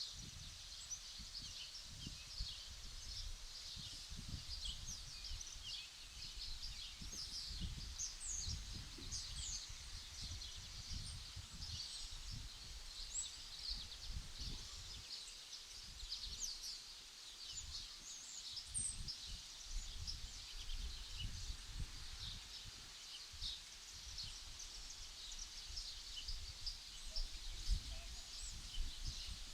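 Many small birds chirping, short high calls overlapping all through, over a low irregular rumble.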